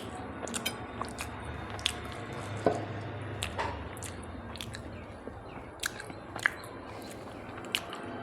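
A person eating close to the microphone: chewing with irregular small wet clicks and mouth sounds.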